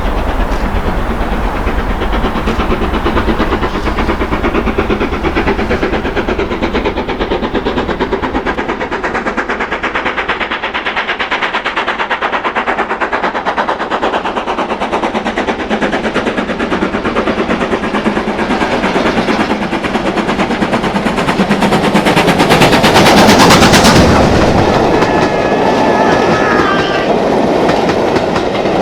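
Steam locomotive hauling a train past at speed, its exhaust beats coming in a fast, even rhythm that grows louder to a peak about three-quarters of the way through. After the peak come the rattle of the passing train and a few brief high tones.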